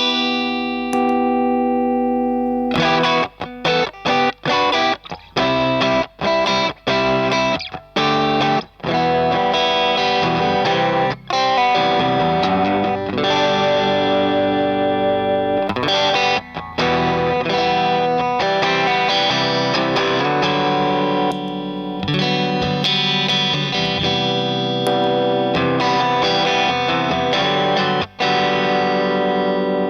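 Electric guitar played through a Lovepedal Eternity-style overdrive pedal (Madbean Drunken Dragon clone), giving a lightly distorted tone. A ringing chord opens, then short stabbed chords with brief gaps, then fuller sustained chords and riffs.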